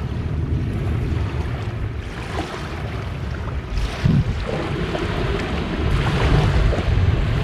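Small waves washing onto a beach, with wind buffeting the microphone as a low rumble; the surf swells up about four seconds in.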